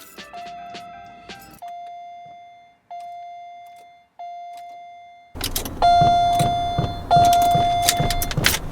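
A car's warning chime bonging repeatedly, one bell-like tone that fades out each time. About five seconds in it turns much louder, with the chime continuing over noise and a regular low thumping.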